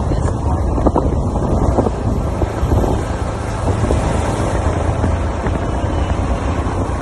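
Wind buffeting the microphone: a loud, steady low rumble with no clear tone.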